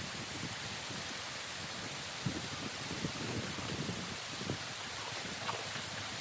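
Water rushing steadily through a breached beaver dam, with a few low splashes.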